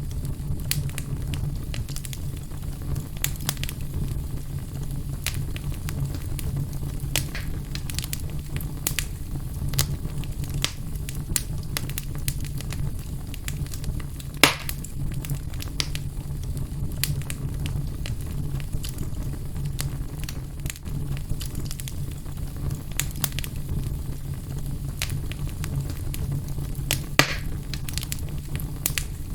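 Wood fire burning in a fireplace, crackling with irregular small pops over a steady low rumble; a louder pop comes about halfway through and another near the end.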